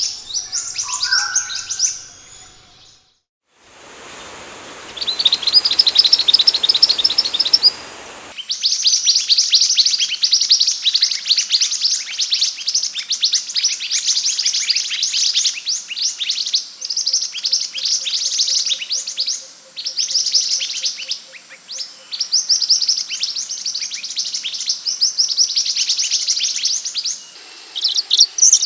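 Scarlet minivet (sepah hutan) singing in fast, high, repeated chirps and trills that run almost without pause. There is a short gap about three seconds in.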